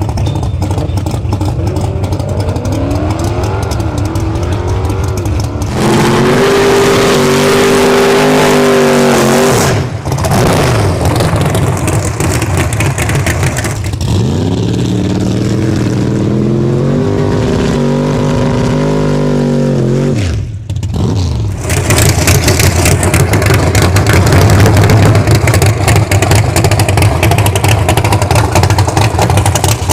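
A full-race Thunderbird drag car's engine revving up and holding high revs for a few seconds, twice, each time cutting off sharply, about 6 s and 14 s in. From about 22 s in there is a louder, rougher roar.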